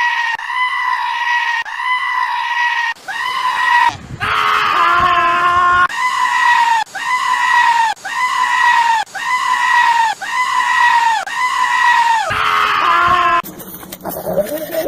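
A goat screaming over and over in short, high, evenly spaced calls, about one a second, broken twice by a longer call that falls in pitch. The calls stop about 13 seconds in and give way to a different, rougher sound.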